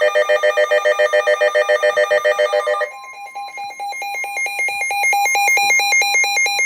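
Electronic weather alert alarm: rapid pulsing beeps that switch to a different alternating beep pattern about three seconds in, over a steady alert tone, signalling an incoming severe weather warning.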